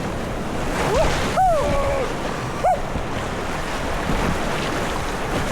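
Steady rush of river rapids around a kayak, with wind on the microphone. A few short voice-like calls rise and fall in pitch in the first three seconds.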